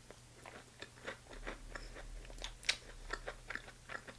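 Close-miked chewing of chicken gizzard: a quick run of crunchy, wet clicks with no words, the sharpest about two and a half seconds in.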